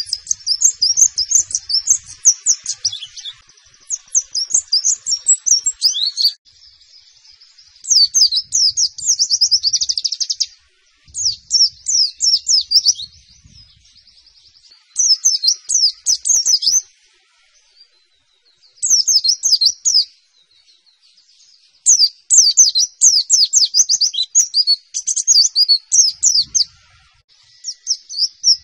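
White-eye (pleci) singing its 'nembak' song: repeated bursts of very fast, high-pitched chipping notes, about eight phrases of one to three seconds each with short pauses and softer twittering between them.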